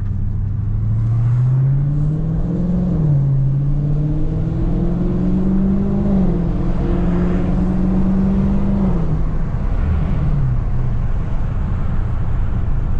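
Dodge Scat Pack's 6.4-litre HEMI V8 accelerating hard: the revs climb, dip sharply about three seconds in as it shifts up, climb again and hold, then fall away about ten seconds in as the driver lifts off.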